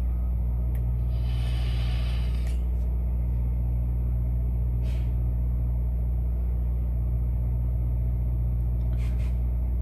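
Semi truck's diesel engine idling, a steady low rumble. A soft hiss comes in about a second in and lasts about a second and a half.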